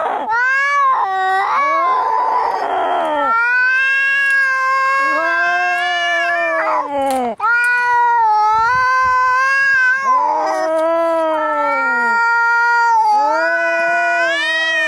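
Angry cats caterwauling: long, drawn-out yowls that waver up and down in pitch, one after another with hardly a break, and a short harsh hiss about two seconds in. These are the threat calls of a cat fight.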